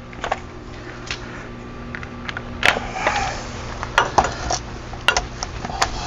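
Scattered sharp metallic clinks and clanks of hand tools and steel parts being handled, several close together in the second half, over a steady low hum.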